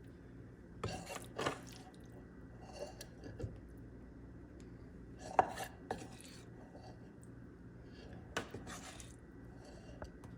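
A spoon clinking and scraping against a dish in a handful of scattered short knocks, the loudest a little past halfway, as stuffing is spooned out.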